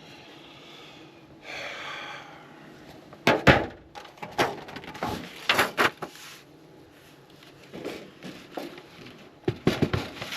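Wooden beehive boxes and frames being handled and set down: a soft rustle about two seconds in, then a series of knocks and clunks, the loudest about three and a half seconds in and another cluster near the end.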